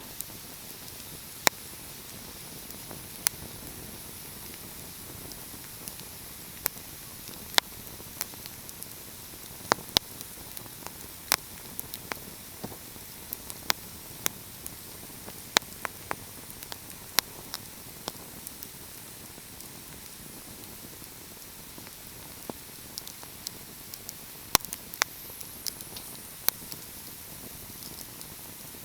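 Wood fire crackling: sharp pops and snaps at irregular intervals over a steady soft hiss, with a lull of a few seconds in the pops past the middle.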